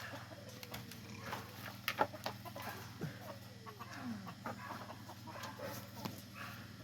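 Chickens clucking and calling among scattered small knocks and clicks, with one falling call about four seconds in.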